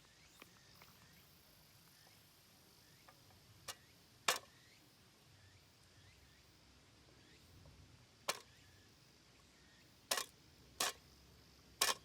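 About six sharp, short knocks or taps, scattered irregularly with gaps of half a second to four seconds, against a faint steady hiss.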